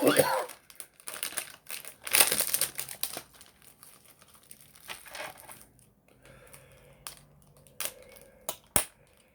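Plastic snack packaging crinkling and rustling as it is handled, in several bursts over the first three seconds, then a few sharp clicks or taps near the end.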